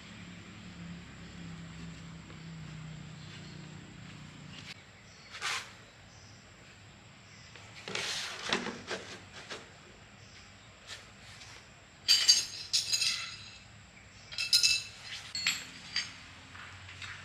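Metal tools and engine parts clinking and knocking against each other as they are handled, in scattered irregular clatters. The loudest ringing clinks come about two-thirds of the way through.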